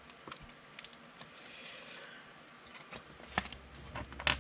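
Trading cards being handled and slid into plastic penny sleeves: faint rustling with scattered light clicks, the sharpest one about three and a half seconds in.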